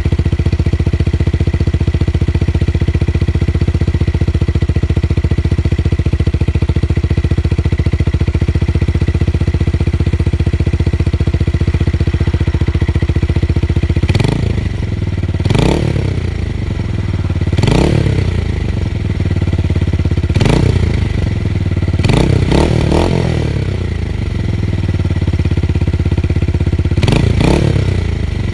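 Tuned motorcycle engine idling steadily with a deep, bassy exhaust note, then, about halfway through, revved in a series of short throttle blips that each rise and fall back to idle.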